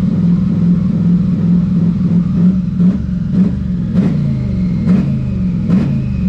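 Twin-turbo Ford 6.2 V8 held at light throttle with a shift-cut knob engaged, running with a stuttering pulse and sharp pops about once a second in the second half. It is bouncing on an ignition cut that drops out around 3,500 RPM and comes back near 2,500 RPM, an unintended limiter the crew is trying to diagnose.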